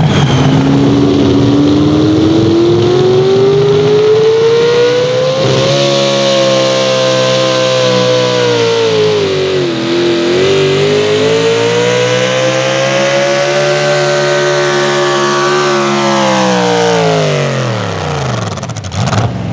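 Pulling vehicle's engine at full throttle, dragging the weight-transfer sled down the track. Its pitch climbs for about six seconds, sags as the engine bogs under the load about ten seconds in, climbs again, then falls away steeply near the end.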